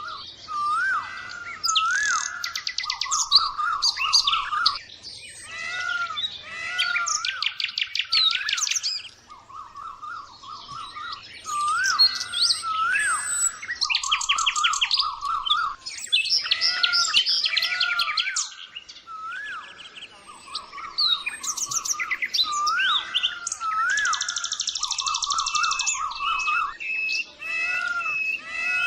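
Birdsong: several birds chirping and trilling in overlapping phrases, with rapid buzzy trills and short rising-and-falling whistled notes repeating throughout.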